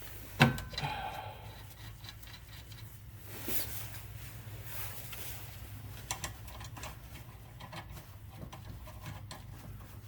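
Scattered clinks and clicks of hand tools and metal suspension hardware being handled, with one sharp knock about half a second in as the loudest sound, over a steady low hum.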